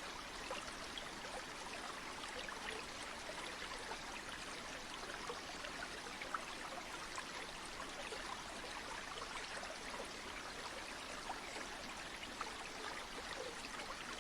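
Steady rush of a flowing stream or river, an even hiss of water dotted throughout with small splashes and trickles.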